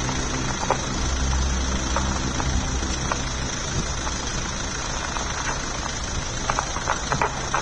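Tsunami flood water rushing steadily, with scattered cracks and knocks.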